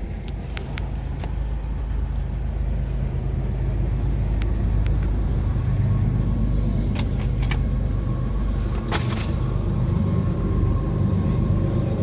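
A motor vehicle engine running steadily, a low rumble that swells a little a few seconds in, with a few sharp clicks over it.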